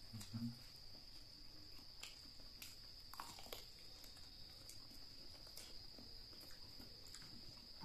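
Faint chewing and biting on spicy chicken feet: scattered mouth clicks and smacks, with one longer sucking smack about three seconds in. Under it runs a steady high-pitched insect trill.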